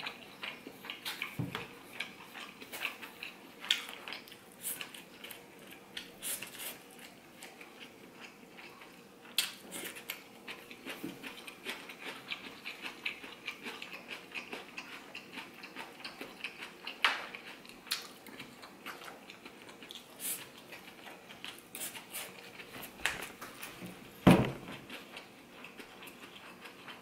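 Chewing and mouth smacking while eating gyro meat, rice and salad, with a fork clicking and scraping against an aluminium foil takeaway pan; one louder knock near the end.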